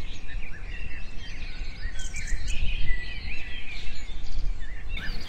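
Many small birds chirping and twittering in quick short notes, over a steady low background noise.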